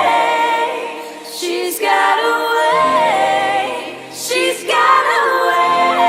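Layered wordless vocals holding and gliding between long notes, like a choir of harmonies, over a sustained low chord.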